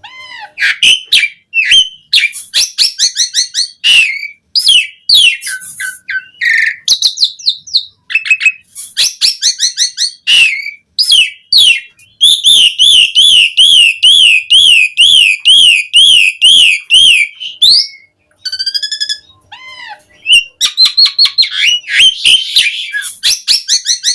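A pied starling (jalak suren) singing a varied, loud song of sharp whistles and rapid chattering clicks. The middle is a long, fast warbling trill lasting about five seconds. One whistled phrase comes back near the end.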